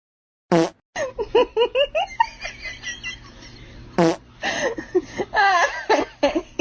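Someone laughing in quick high-pitched giggles. A short loud sound comes about half a second in and another at about four seconds.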